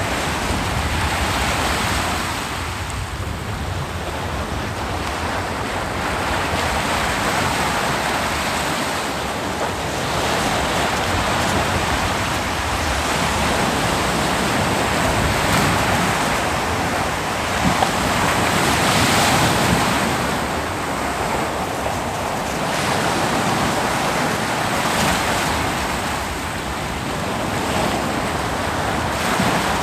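Ocean waves breaking and washing up a beach, a continuous rush of surf that swells and eases every few seconds, with one stronger wave about two-thirds of the way through.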